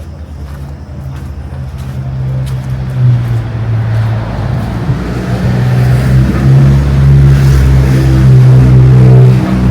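Motor vehicle engine running with a steady low hum, growing steadily louder as it comes closer and loudest near the end.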